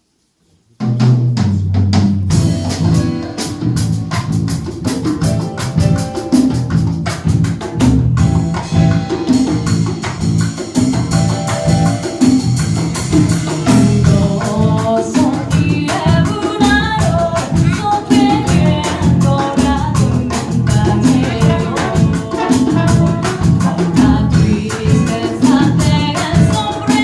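Live band music with drum kit and percussion over a steady bass rhythm. The band comes in abruptly about a second in, after near silence, and a melodic line rises above the rhythm about halfway through.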